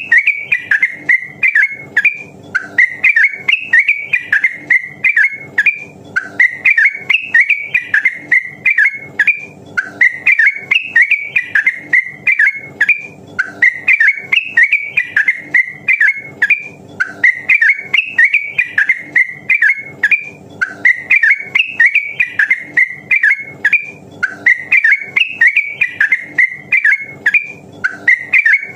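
Yellow-vented bulbul (trucukan) singing its bubbly song: a short burst of quick warbled notes, repeated over and over about every two seconds.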